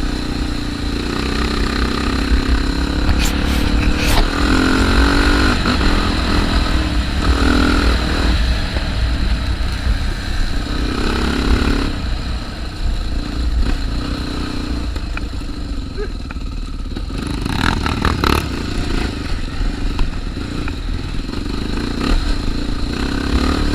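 Single-cylinder Honda Tornado trail motorcycle being ridden on a dirt trail, its engine note rising and falling as the throttle is worked.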